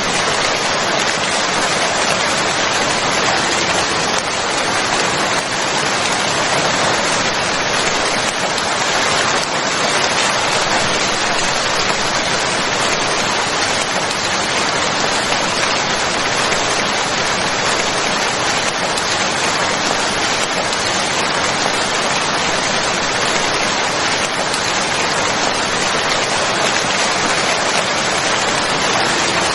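Steady rain falling, a dense even hiss of drops on a surface, unchanging throughout.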